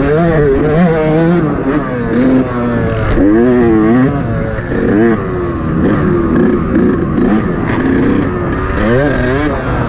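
Yamaha YZ125 two-stroke motocross engine revving hard and backing off over and over, its pitch climbing and falling roughly every second as the throttle is worked around the track.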